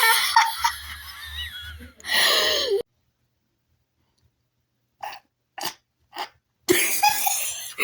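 A person's voice making loud, sneeze- and cough-like outbursts: a long one at the start, then silence, then four short puffs, then another loud outburst near the end.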